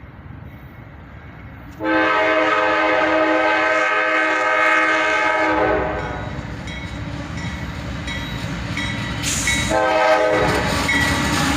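Air horn of a CSX freight train led by two GE AC44CW diesel locomotives, a multi-note chord sounded in a long blast about two seconds in, then a short blast near the end. Between the blasts the locomotives' diesel engines rumble louder as the train approaches.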